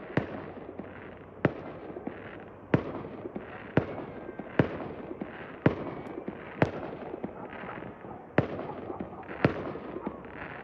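Fireworks going off in the neighbourhood: a string of sharp bangs about once a second over a steady background of crackle.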